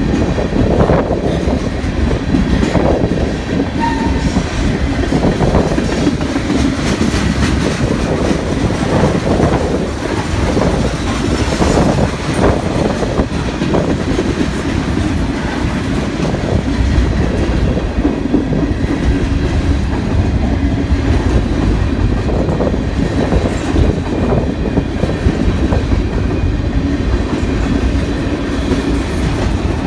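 Freight cars of a Canadian National train rolling past at close range: a loud, steady rumble with the wheels clacking over rail joints.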